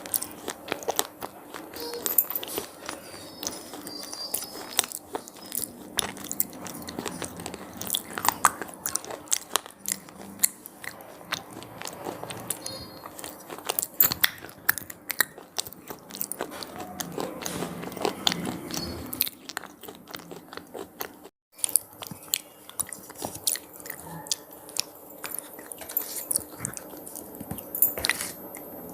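Close-up crunching and chewing of crisp cheese pizza-flavoured puffed snacks: many irregular sharp crackles as they are bitten and chewed, with a brief break about two-thirds of the way through.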